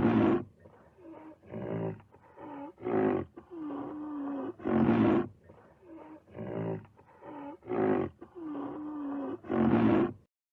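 A big cat roaring in a long rhythmic series of rough calls, louder ones alternating with softer grunts, breaking off near the end.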